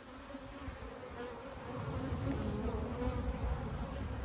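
Honey bees buzzing in a crowd around an opened hive: a wavering hum of several pitches, with a low rumble growing from about two seconds in.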